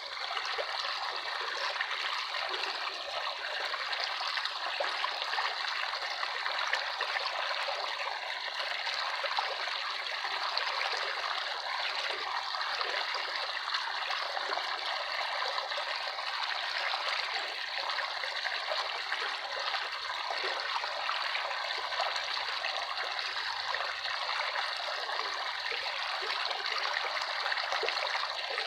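Running water of a small stream, trickling and splashing steadily.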